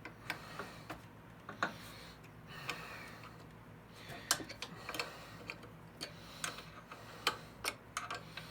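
Scattered sharp metal clicks and taps at irregular intervals, from hand tools working the blade bolts on a thickness planer's cutterhead.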